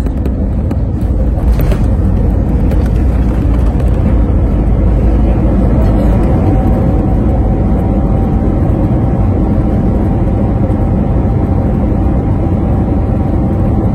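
Steady low rumble of airliner cabin noise from a jet on the ground after landing, heard from inside the cabin. A faint steady whine joins about six seconds in.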